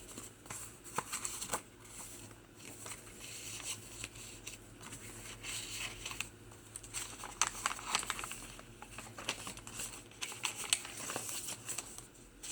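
Paper pages of a handmade journal rustling and crinkling as they are handled and turned, with irregular soft clicks of paper against paper.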